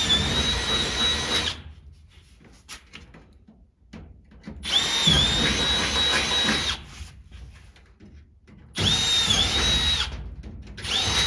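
Power drill drilling holes in the race car's body: three runs of about two seconds each, with a fourth starting at the very end. The motor's whine dips in pitch briefly as the bit bites and goes through. Faint clicks of handling come between the runs.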